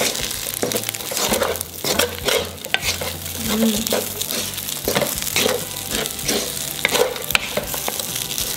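Fried rice sizzling as it is stir-fried in a hot pan, with the stirring utensil repeatedly scraping and knocking against the pan.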